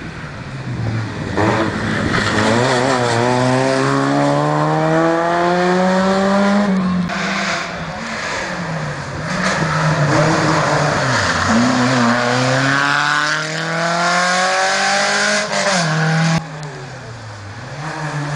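Rally car engine at full throttle, unseen and drawing nearer, climbing in pitch through the gears in three long rising sweeps with a drop at each upshift. Near the end it falls off sharply as the driver lifts off.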